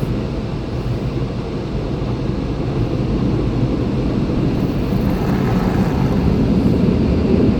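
Automatic car wash dryer fans blowing on the car, a steady loud rushing drone heard from inside the cabin, growing a little louder through the last few seconds.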